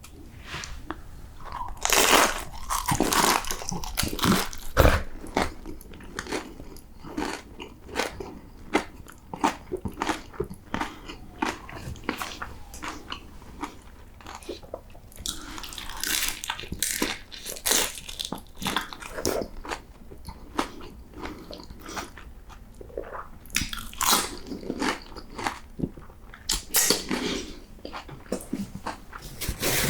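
Close-miked biting and chewing of crispy fried taquitos: sharp crunches as the shells break, then a run of irregular crackly chews, with the loudest bites a couple of seconds in and again about 24 seconds in.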